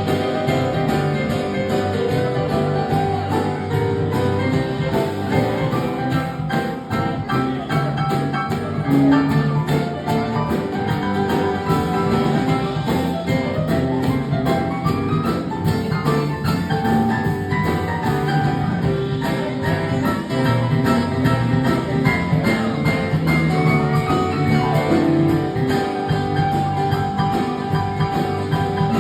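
Acoustic music: guitar and other plucked strings playing a song at a steady level.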